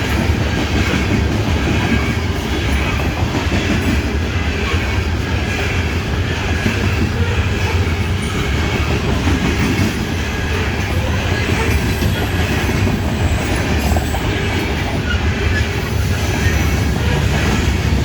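Loaded coal hopper cars of a long freight train rolling past: a steady, loud rumble and clatter of steel wheels on the rails.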